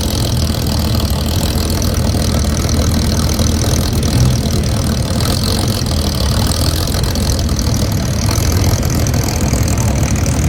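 Car engines idling and rumbling steadily as show cars roll past slowly.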